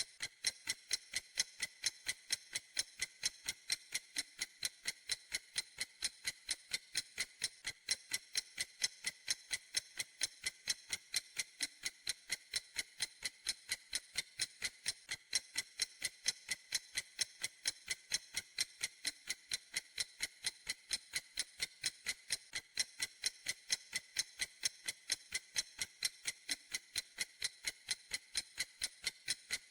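Clock ticking steadily, with sharp, high clicks at an even rate of about three a second.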